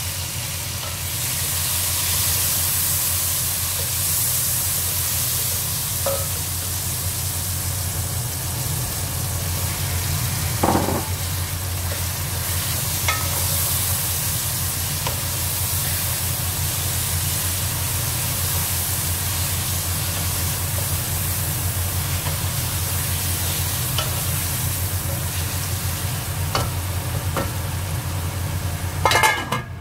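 Onions, tomatoes and diced chicken sizzling in hot oil in an aluminium pot while being stirred with a wooden spoon, the spoon knocking on the pot now and then, over a steady low hum. A short clatter comes near the end.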